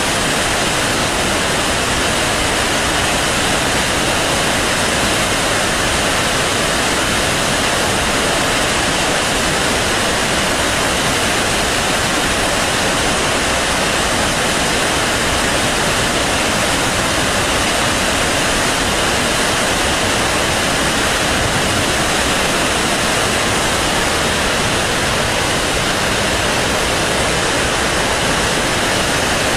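Water released from Tarbela Dam, running at high flow after heavy rain: a loud, steady rush of noise that never lets up.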